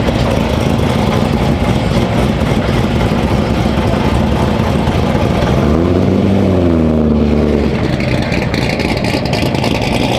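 Volkswagen Golf GTI driving, a steady mix of engine and road noise; about six seconds in the engine pitch rises briefly, then falls away.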